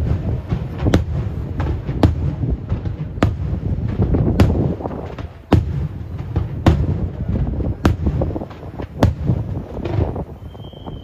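Aerial firework shells bursting in a rapid sequence: sharp bangs roughly once a second over a continuous low rumble and crackle, dying down near the end.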